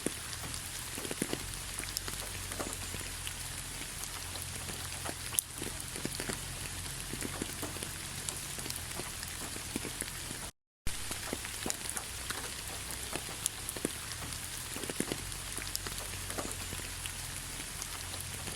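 Light rain falling: a steady hiss with scattered individual drop ticks. The sound cuts out completely for a split second about ten and a half seconds in.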